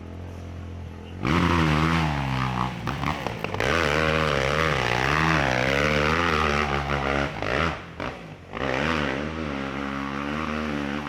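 An ATV engine running hard under full throttle as the quad climbs a steep hill, its pitch rising and falling as the rider works the throttle. The engine comes in loud about a second in, drops away briefly near the end, then picks up again.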